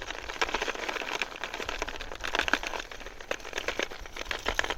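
Rapid clicking and crinkling of fishing lures and plastic tackle being rummaged through by hand.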